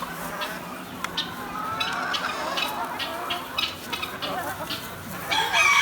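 A flock of hens clucking and calling, with many short overlapping calls and a louder burst of calls near the end.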